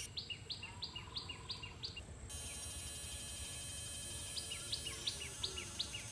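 A bird calling in two runs of short, quick, descending chirps, about three a second. A shrill high hiss cuts in about two seconds in.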